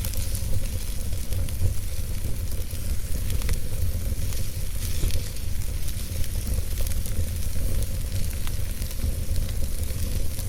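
Campfire burning: a steady hiss with scattered sharp crackles and pops of burning wood, over a low rumble.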